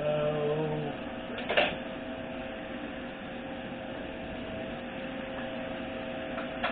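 Steady electrical hum, with a short buzz in the first second and a single sharp knock about a second and a half in.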